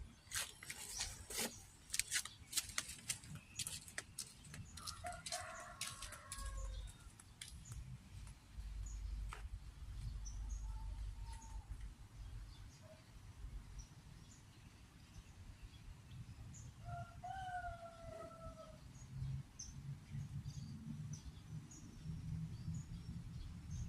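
Small birds calling with short, high chirps scattered throughout. Two longer, lower calls come about five and seventeen seconds in. Sharp clicks and rustling in the first few seconds sit over a low rumble.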